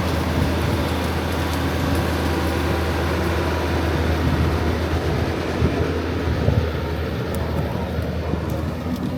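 Machinery running steadily with a constant low hum under a broad rushing noise.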